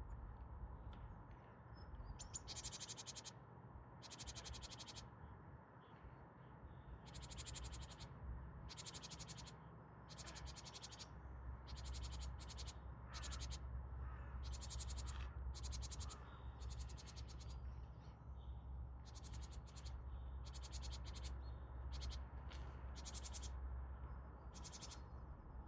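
Short, raspy, high-pitched chirps, each under a second, repeated irregularly about twenty times over a low steady rumble.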